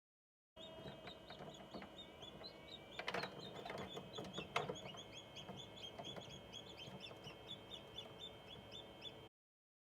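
Chicks peeping rapidly, short high chirps a few times a second, over a steady hum, with two sharp knocks about three and four and a half seconds in. The sound starts abruptly and cuts off near the end.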